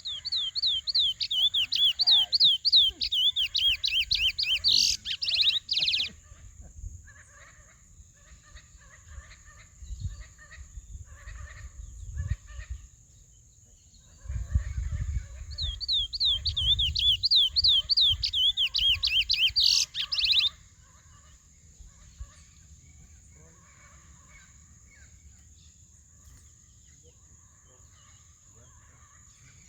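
Curió (chestnut-bellied seed finch) singing two loud phrases of rapid, repeated sweeping whistled notes. One runs from the start to about six seconds in, the other from about fifteen to twenty seconds in, and each ends in a few harsher notes. Faint chirps fill the gaps between them.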